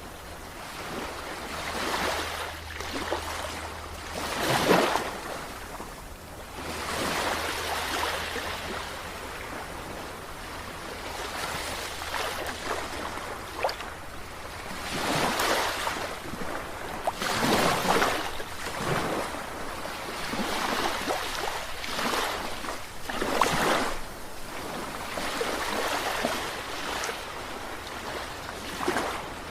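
Sea waves breaking and washing in, swelling and falling in irregular surges every few seconds, over a steady low hum.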